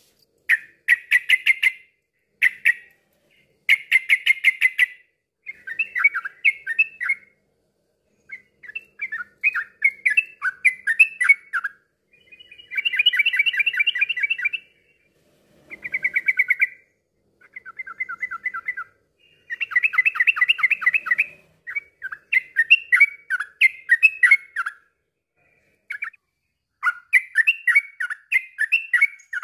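Yellow-vented bulbul (trucukan) song: bursts of quick, bubbling chattering notes, each phrase lasting a second or two, repeated about a dozen times with short pauses between.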